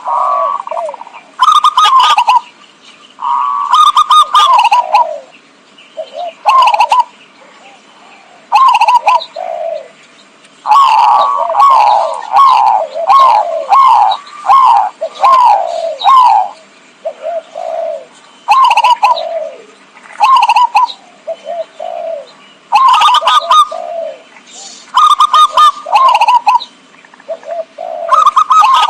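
Zebra dove (perkutut) cooing loudly in repeated bursts of quick, rolling coo notes, every second or two, with a longer unbroken run in the middle. This is a lure call for attracting wild zebra doves.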